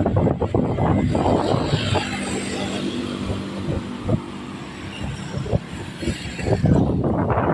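A motor vehicle engine running steadily, with gusts of wind buffeting the microphone.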